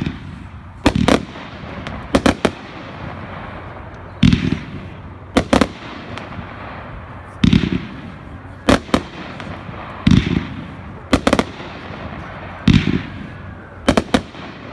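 A 500-gram consumer fireworks cake firing single shots, about five times. Each shot is a low launch thump with a brief hiss, followed about a second later by a sharp double bang as the shell bursts.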